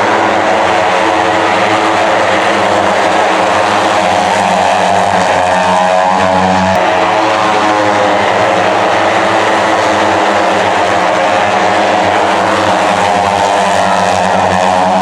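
Superbike racing engines running at high revs, the engine note rising and falling with the throttle and gear changes.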